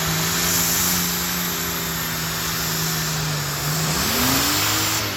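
A pulling vehicle's engine running hard under load at a steady pitch, then revving up sharply about four seconds in.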